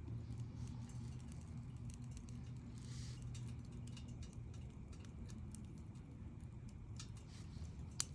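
Wood campfire crackling, with irregular small pops and snaps over a low steady rumble of the burning fire; a brief hiss about three seconds in and one sharp, louder pop near the end.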